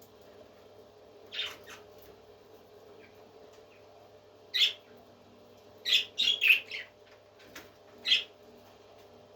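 Parrot giving short, sharp high calls: one about a second in, another midway, a quick run of several just after, and a last one near the end, over a faint steady hum.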